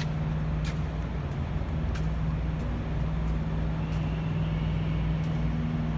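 Steady low machinery hum with a constant drone, the kind made by engines or large fans running nearby, with a few faint ticks over it.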